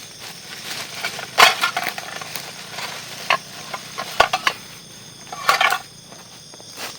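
Scattered knocks and clatter of camp gear being handled, a handful of sharp hits with brief ringing. A steady chirring of insects runs underneath.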